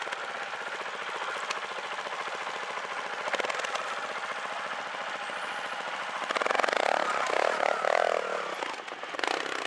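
Trials motorcycle engine running at low revs with a fast, even firing pulse, picking up and getting louder for about two seconds in the last third.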